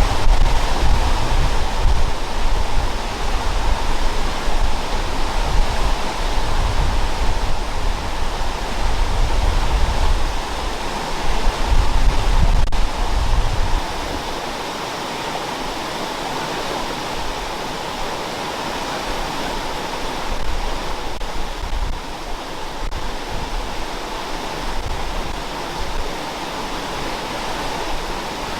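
Waterfall pouring onto rock, a steady loud rush of water. A low rumble sits under it in the first half and drops away about halfway through.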